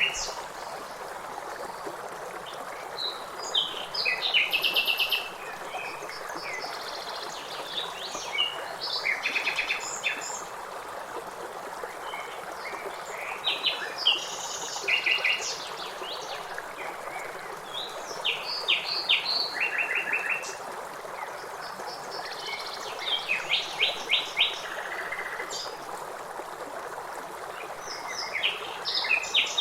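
Several songbirds singing and chirping in rapid trills every few seconds over the steady rush of river water.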